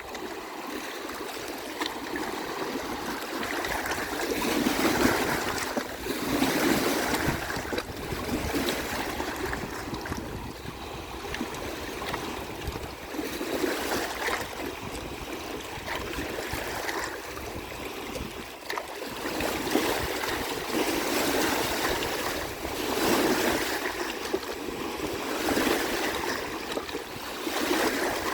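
Waves washing onto the shore in a continuous rush of water, swelling and ebbing every few seconds.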